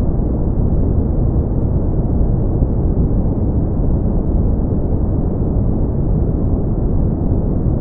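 Steady brown noise: a deep, even rumbling hiss with most of its energy low and little above the midrange, unchanging throughout.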